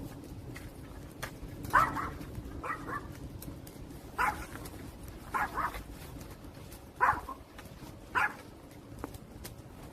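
A dog barking, a run of short single and doubled barks about every second, over the faint snap and crackle of a wood fire.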